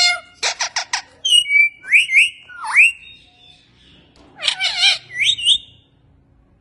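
Indian ringneck parakeet calling: a quick run of chirps, then several sharp rising and falling whistles, a brief lull, a harsher squawk-like call and a short rising whistle.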